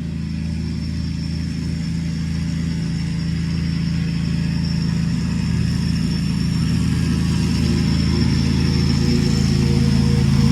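Petrol lawnmower engine running steadily, growing gradually louder, with a thin steady high whine above it.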